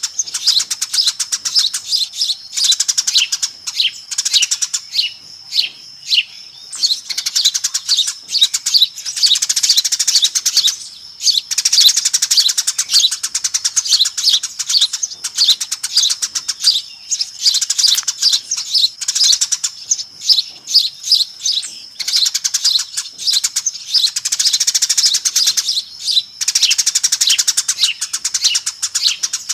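Eurasian tree sparrows chattering noisily: a dense, rapid run of overlapping chirps with a few short lulls, the kind of flock chatter played as a lure to draw sparrows in.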